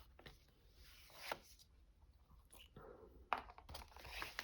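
Faint handling of paper and card: a few soft taps and rustles as pieces are fitted into a handmade journal.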